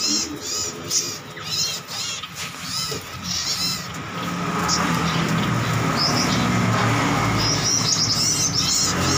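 Many small birds chirping in quick, repeated high calls. A steady background noise grows louder about halfway through.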